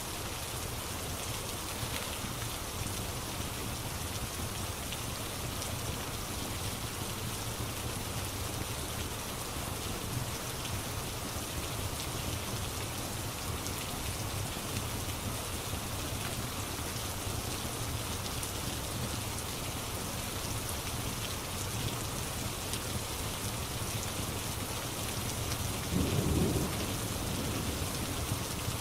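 Steady rain ambience with a low rumble of thunder underneath and faint fire crackles; a louder roll of thunder swells briefly near the end.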